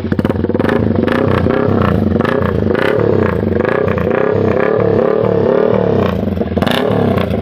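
Yamaha R15M V4's single-cylinder engine blipped up and down over and over through an aftermarket exhaust, its pitch rising and falling about once or twice a second.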